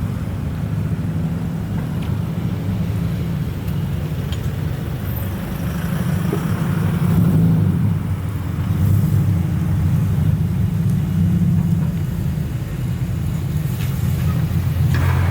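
Low, steady exhaust note of a modified car moving slowly, growing a little louder about halfway through.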